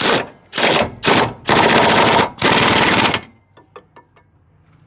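Pneumatic impact wrench run in five short bursts of rapid rattling, the last two the longest, followed by a few light metallic clicks.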